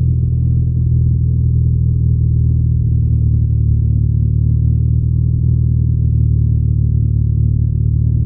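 BMW R nineT's air/oil-cooled boxer twin running at a steady cruise, its exhaust a low, even drone with no revving up or down.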